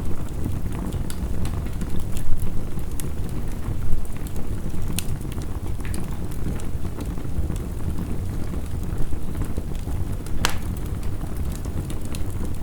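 Wood fire crackling with irregular sharp pops, one louder pop about ten seconds in, over a steady wash of heavy rain.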